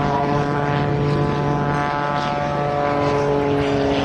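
Oracle Challenger III aerobatic biplane's piston engine and propeller running at a steady speed.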